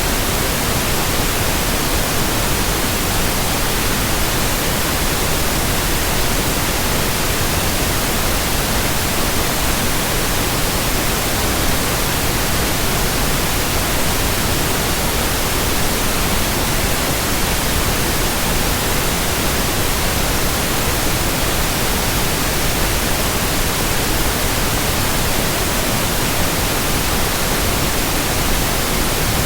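Steady white noise: an even, unchanging hiss spread across all pitches, with no rhythm, tones or separate events.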